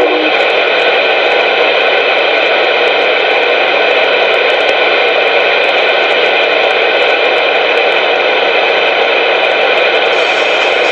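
CB radio receiver static: a steady, loud hiss of open-channel noise with faint steady tones running through it and no voice on the channel.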